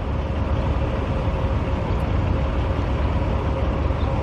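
Steady low rumble of motor vehicle noise, with a faint steady hum over it.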